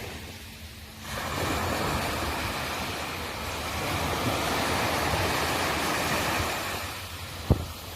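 Sea waves on the shore: a wave surges in about a second in and washes steadily for several seconds before easing near the end. A short sharp low thump comes just before the end.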